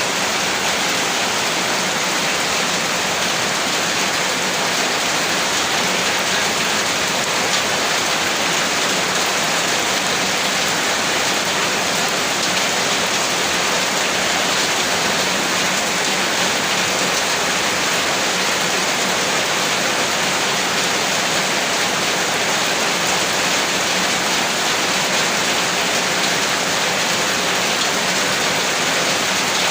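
Steady rain falling as an even, unbroken hiss, strongest in the upper register, with no thunder or pauses.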